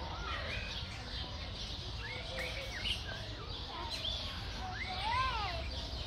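Several birds chirping and calling in short rising and falling notes, with one louder arched call about five seconds in, over a steady low rumble.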